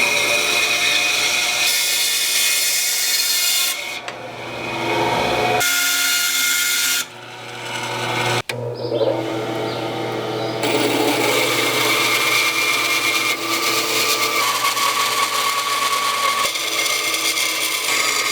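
Woodworking power tools running and working wood. The sound is heard in several short clips that change abruptly, each with a steady motor hum under the cutting noise.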